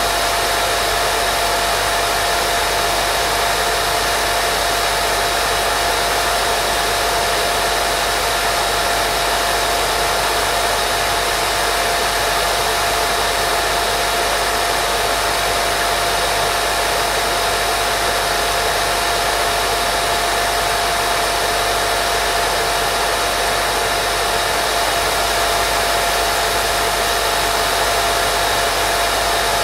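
Steady, unchanging white noise played as a baby sleep sound: a constant hiss with a faint steady whine running through it.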